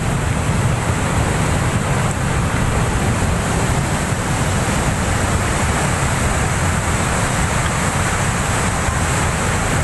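Floodwater rushing in a steady, even noise, heaviest in the low end.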